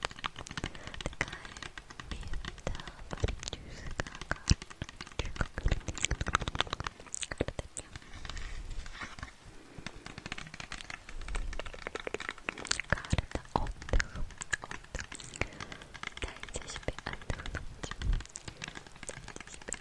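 Close-miked ASMR trigger sounds: a dense, irregular run of small clicks, crackles and scratches.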